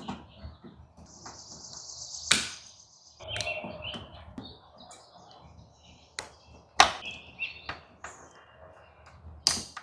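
Sharp clicks and knocks of small parts and tools being handled while wiring a relay board, with short high chirps, likely birds, in the background.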